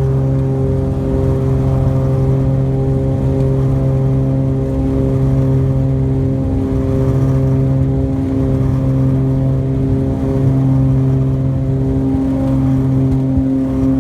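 Cessna 414's twin turbocharged six-cylinder piston engines running at takeoff power: a loud, steady, low drone that holds pitch throughout.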